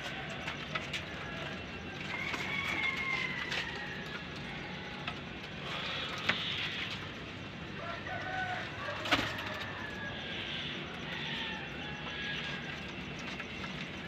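Bird calls in the background, some drawn out and falling in pitch, with a few sharp clicks, the loudest about nine seconds in.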